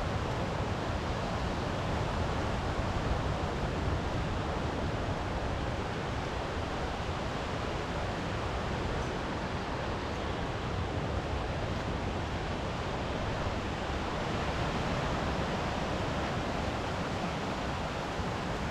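Steady rushing wash of sea surf and wind, even throughout with no separate events.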